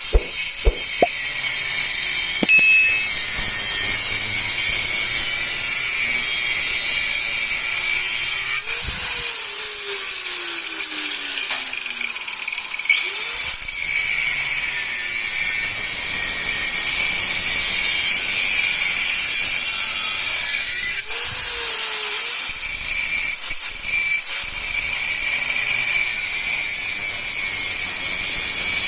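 A power tool running steadily on wood, with a few short pauses.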